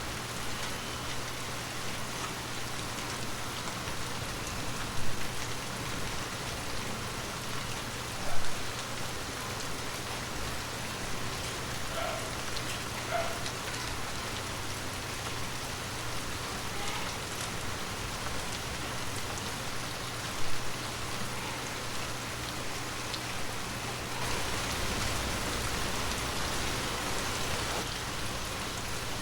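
Heavy rain falling steadily, with three sharper, louder single hits standing out from the patter about five, eight and twenty seconds in. The rain grows a little louder near the end.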